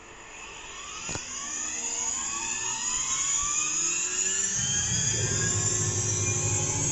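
CNC router spindle spinning up, a high whine rising in pitch and getting louder over the first couple of seconds. A lower rumble joins about four and a half seconds in.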